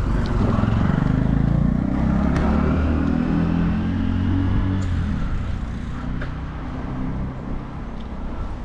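A motor vehicle's engine running close by, loudest over the first few seconds and then fading, over the rushing noise of a bicycle ride on a city street.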